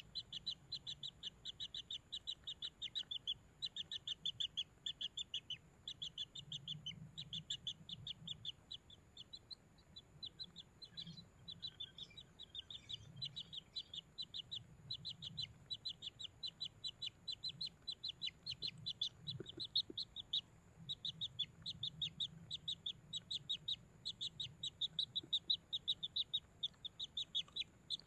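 Kingfisher chicks begging: a rapid series of short, high chirps, about five a second, in runs with brief pauses, the call of hungry nestlings.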